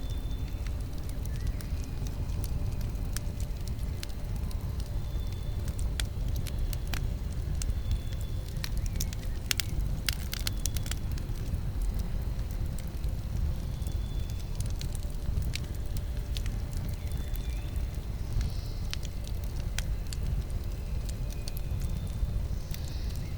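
Campfire burning: wood crackling and popping in scattered sharp clicks over a steady low rumble, with a quick flurry of pops about ten seconds in.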